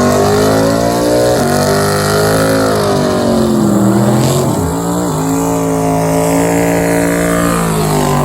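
Race car engine at full throttle on a drag strip, its pitch climbing, breaking and climbing again with gear changes, then falling away near the end.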